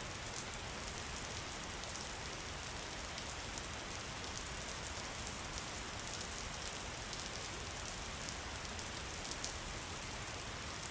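Steady rain falling, a constant hiss with many small, sharp drop hits.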